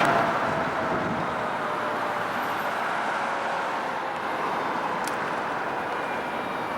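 Steady road-vehicle noise, with a faint tone sinking slowly in pitch early on and a single sharp click about five seconds in.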